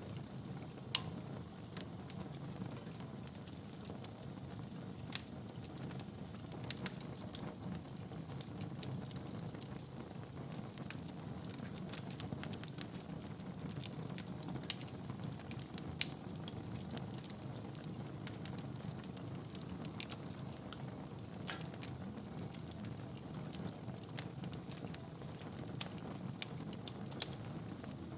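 Wood fire burning in a fireplace: a steady low rumble of flames with irregular crackles and sharp pops of burning logs, a few louder pops standing out.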